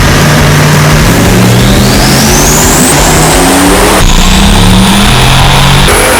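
Turbocharged car engine accelerating hard, its pitch climbing in steps, with a high turbo whistle rising alongside it twice.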